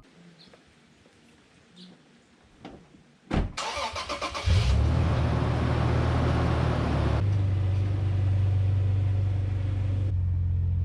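A few faint clicks and a thump, then a vehicle engine cranks for about a second and starts. It runs fast for a couple of seconds, then settles into a steady idle.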